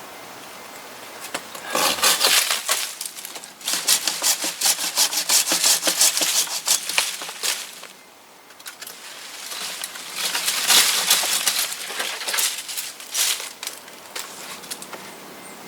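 Silky Katana Boy 500 saw blade sawing through wood in three spells of rapid strokes, pausing briefly about three and a half seconds in and again about eight seconds in.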